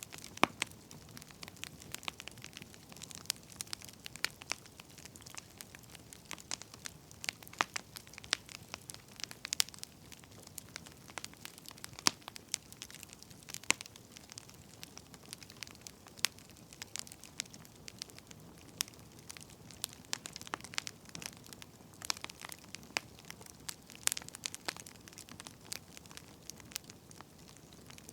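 Firewood burning, crackling with irregular sharp pops over a soft low rumble of the flames.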